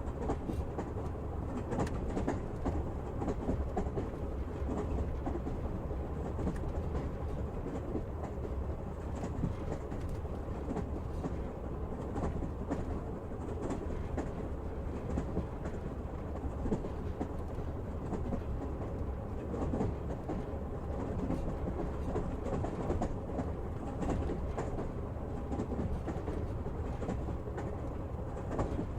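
Train wheels rolling steadily on the rails: a continuous low rumble with irregular clicks and clacks from the wheels over rail joints.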